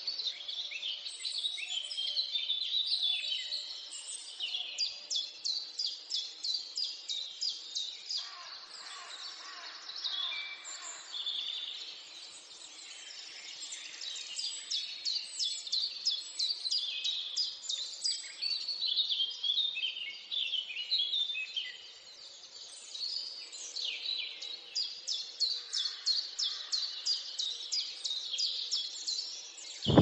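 Several songbirds singing at once: overlapping chirps and whistles, with runs of fast repeated notes at about five a second.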